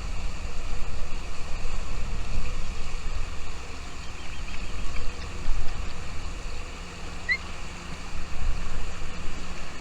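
Wind buffeting the microphone, making an uneven low rumble, with one short rising bird chirp about seven seconds in.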